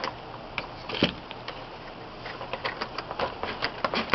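Packaging being handled as a small toy helicopter is worked out of its box: scattered clicks and crackles, one sharper click about a second in, then a quick run of clicks in the second half.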